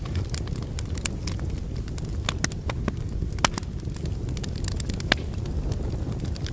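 Wood fire burning in a fireplace: a steady low rumble of flames with irregular sharp crackles and pops from the logs, a few louder snaps among them.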